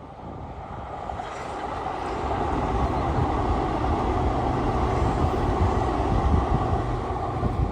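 A train running, with a steady rumble that grows louder over the first three seconds and then holds.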